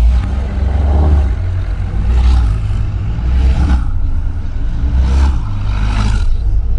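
Ferrari sports car exhaust under acceleration: a deep, loud rumble with several short surges of sharper engine sound, about a second or so apart.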